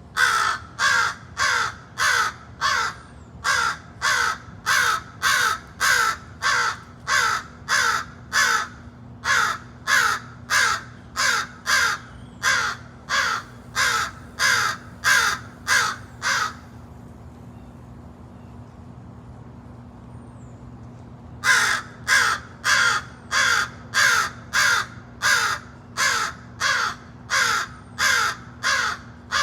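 American crow cawing over and over in a fast, even series of about two harsh caws a second. It falls silent for about five seconds past the middle, then takes up the same run of caws again.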